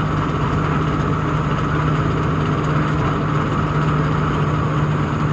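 Tata truck's diesel engine running steadily, heard from inside the cab while driving, with a constant low hum and road noise.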